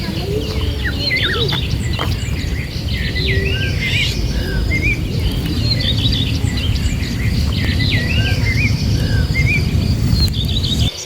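Several birds chirping in many short, quick calls, over a steady low rumble.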